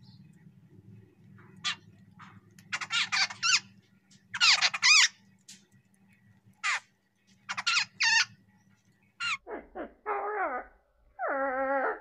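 Jungle babblers calling as they feed: a run of short, squeaky, high-pitched calls, some in quick clusters, then a few lower, drawn-out calls near the end, one falling in pitch and one held steady.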